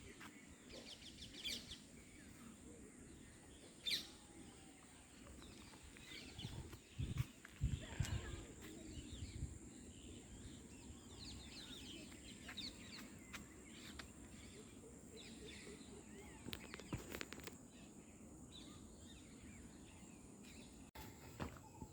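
Birds chirping now and then over faint steady background noise, with a few soft low knocks.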